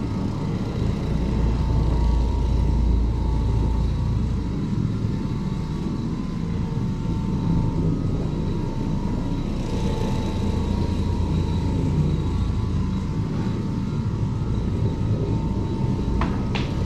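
Carpet-cleaning machine motor running steadily with a low rumble and a faint high whine, as it works across the carpet.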